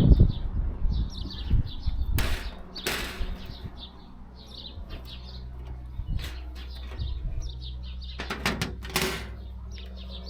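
Small birds chirping repeatedly, with short scraping, sliding handling noises about two and three seconds in and again near the end, over a steady low hum.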